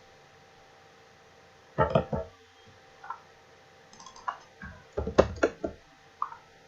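Irregular clicks of a computer mouse and keyboard, in small clusters, the loudest a little past the middle, over a faint steady electrical hum.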